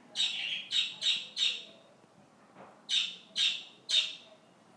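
A pet bird squawking: seven short, harsh calls in two runs, four in quick succession at the start, then three more about three seconds in.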